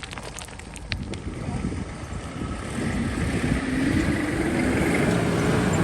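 A 4x4's engine revving up under load on a steep off-road climb, getting louder from about two seconds in, its pitch rising and then holding high.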